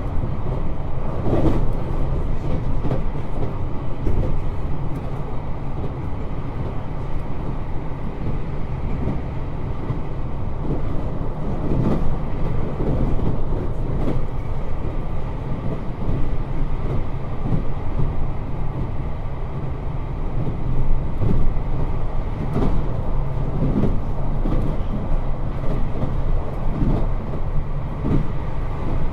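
721 series 3000-subseries electric train running, heard from inside the car: a steady low rumble of wheels on rail with scattered clicks and knocks.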